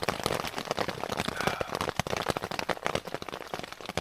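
Heavy rain falling hard on the fabric of a hiking shelter: a dense, steady patter of many small drop impacts.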